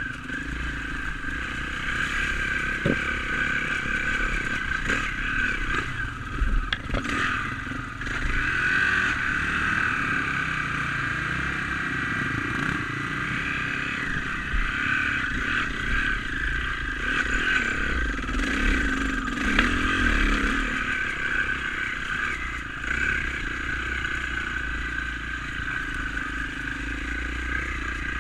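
Dirt bike engine running steadily as the bike is ridden, picked up by a GoPro mounted on the bike or rider, with low rumble and a few short knocks and clatters in the first third.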